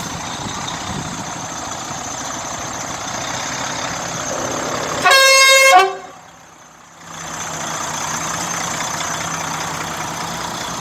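A truck's horn gives one short, loud blast just past halfway, a single steady note, over a steady background of running vehicle engines. Right after the blast the background drops away for about a second.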